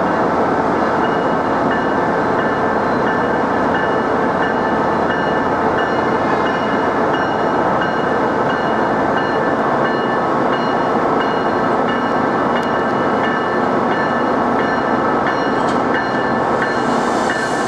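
Passenger train running slowly through a covered station: a loud, steady rumble with a few steady high tones over it, and a brief hiss near the end.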